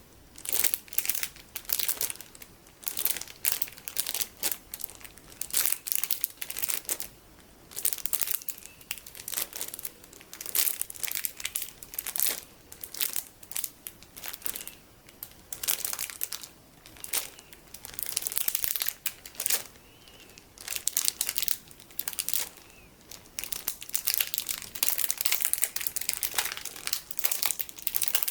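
Plastic packaging of colorful sticky beads being crinkled, in repeated bursts of crackly rustling with short pauses between.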